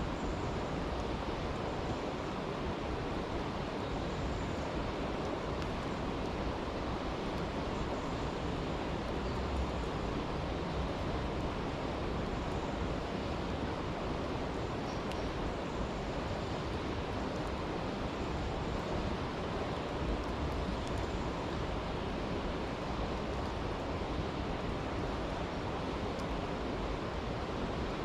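Steady rushing of a stream, with a few faint crackles from a campfire.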